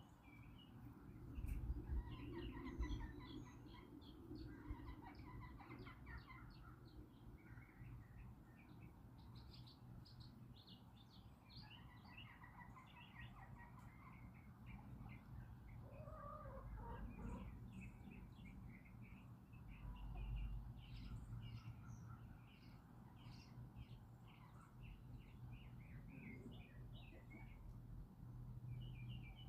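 Small songbirds chirping on and off throughout, with a few soft clucks from backyard chickens in the middle. A low rumble of background noise runs underneath.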